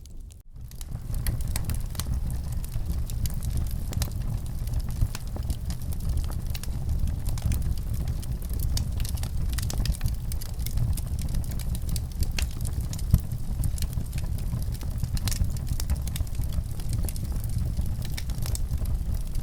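Wood fire crackling in a fireplace: frequent sharp pops and snaps over a steady low rumble, which begins about a second in after a brief gap.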